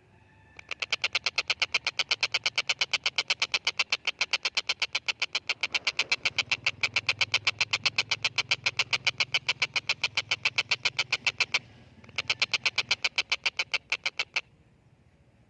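Stork-billed kingfisher (tengkek buto) calling a long, fast series of harsh, evenly repeated notes, about seven a second. The series breaks off after about eleven seconds and then resumes as a second, shorter burst of about two seconds.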